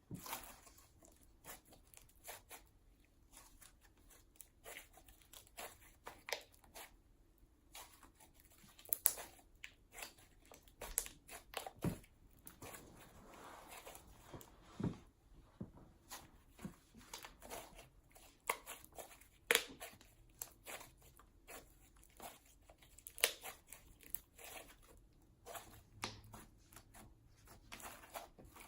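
Hands kneading and stretching a large mixed ball of slime: a faint, irregular run of sticky clicks and small air pops as the slime is pulled and folded.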